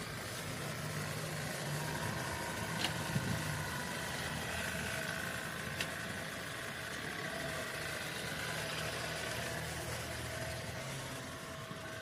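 Tata Punch's 1.2-litre three-cylinder petrol engine running steadily at low revs as the car is driven slowly, a low even hum.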